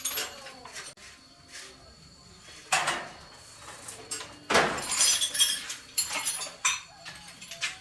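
Sharp clinks and clattering knocks of hard objects: one clatter about three seconds in, then a busier run of clinks from about four and a half to nearly seven seconds in.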